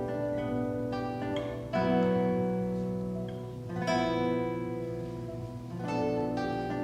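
Solo classical guitar playing: plucked notes and chords that ring on. Fresh notes are struck about two seconds in, again at four seconds, and near the end.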